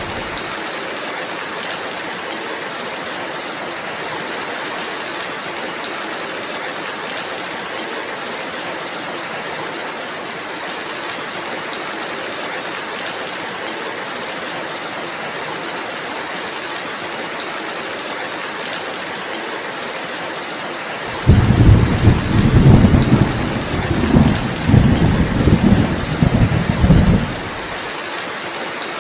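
Steady rainfall hissing. About 21 seconds in, a loud low thunder rumble comes in, swells in several surges for about six seconds, and then dies away, leaving the rain.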